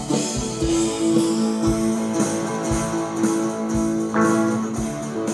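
Instrumental playback of a live band's multitrack recording with the vocal channels muted: guitar strumming sustained chords, with occasional low thumps underneath.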